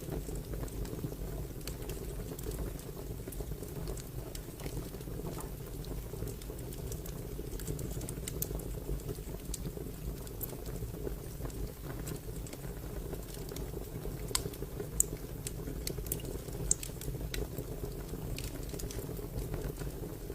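Wood fire crackling: a steady low rush with irregular snaps and pops, a few louder pops around two-thirds of the way through.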